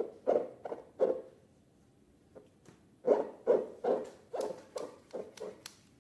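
Slime being squished and pressed, giving short wet squelches: three in quick succession, then after a pause of about two seconds a run of about eight more.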